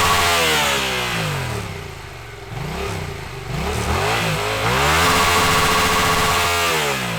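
2019 Yamaha MT-07's 689 cc parallel-twin engine revving through its stock exhaust: held at high revs, falling back to idle, two quick blips, then revved up and held again before dropping away near the end.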